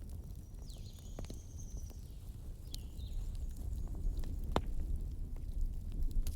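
Wood fire in a fireplace crackling, with a few sharp pops of the burning logs over a low steady rumble of the flames. The loudest pop comes about halfway through.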